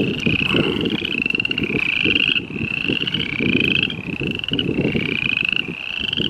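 Chorus of spring peepers: many short rising peeps overlapping, several a second, over a low rumble of wind on the microphone.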